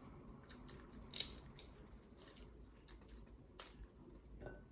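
Green-cheeked conure's beak working at a walnut: scattered small clicks and cracks, the loudest just over a second in.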